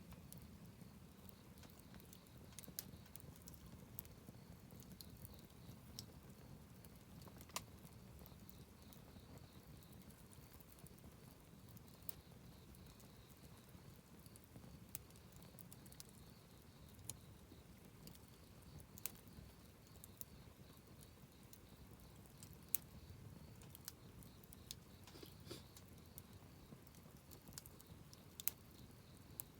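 Wood campfire crackling faintly: irregular sharp pops and snaps over a low, steady rush of burning.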